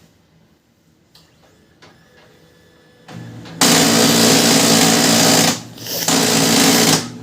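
Pantum M7102DW laser printer making a loud, harsh "karrr karrr" grinding noise from its fuser unit. The noise starts about halfway through, breaks off briefly after about two seconds, then starts again. It is the sign of a faulty fuser assembly, which was replaced to cure it.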